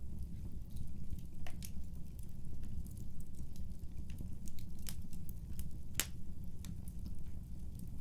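Wood fire burning in a fireplace: a steady low rumble from the flames with scattered sharp crackles and pops, the loudest about six seconds in.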